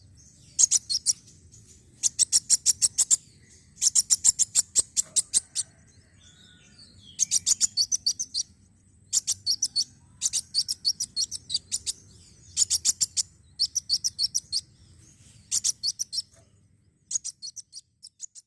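Kolibri wulung sunbird calling: rapid, high-pitched chipping trills in bursts of about a second, roughly nine bursts separated by short pauses.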